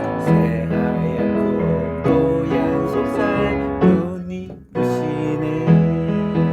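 Piano playing a slow, gentle song accompaniment, with a brief drop in loudness about four and a half seconds in before it picks up again.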